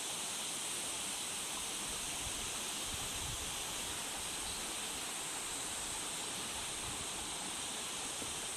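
Steady rushing of a forest stream's flowing water, with a few low wind bumps on the microphone about two to three seconds in.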